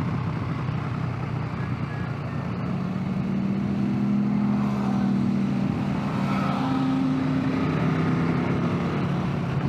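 Motorcycle engine running under way, with a steady rush of wind and road noise; the engine note rises a little about three to four seconds in and then holds steady.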